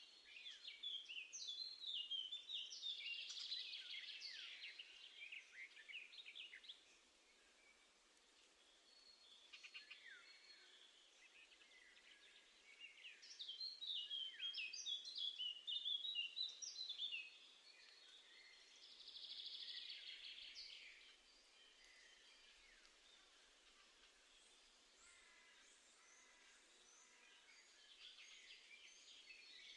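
Small songbirds calling and singing in several bouts of quick, high chirps and trills, with quieter spells between.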